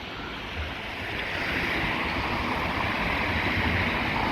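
Sea surf and wind on the seafront: a steady rushing noise that swells a little about a second in and then holds.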